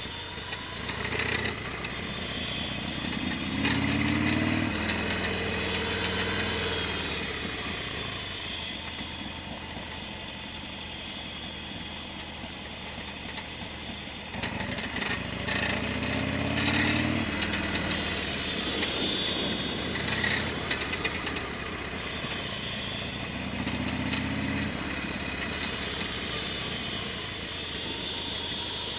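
Harley-Davidson Sportster XL1200R's 1200 cc V-twin engine running while the bike is ridden, over steady wind and road noise. Three times the engine note climbs as the rider accelerates, then drops away.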